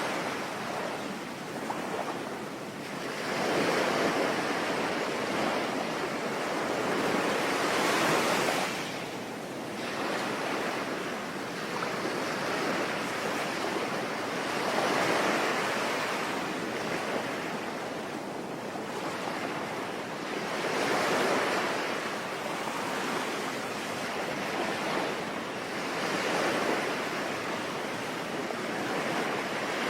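Sea waves breaking and washing on a shore, swelling and falling back every few seconds, with rain falling.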